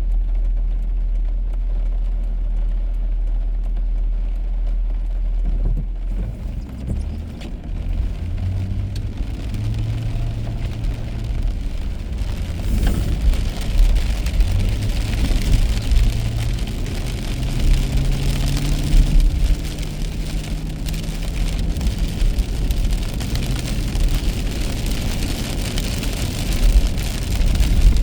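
Car heard from inside, its engine first a steady low hum, then from about six seconds in pulling away, the engine note climbing and dropping back in steps as it shifts up. A hiss of tyres on the wet road grows as the car gathers speed.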